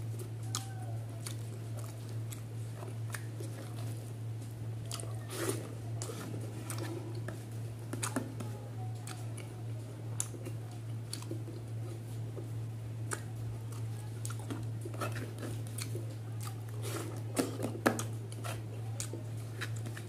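Close-up eating sounds: a person chewing catfish curry and rice with wet mouth clicks and smacks coming irregularly, a few sharper ones near the end, over a steady low hum.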